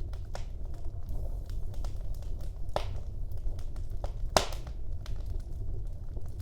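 Wood fire burning in a fireplace: a low steady rumble of the flames with irregular crackles and pops, two sharp pops standing out about three and four and a half seconds in.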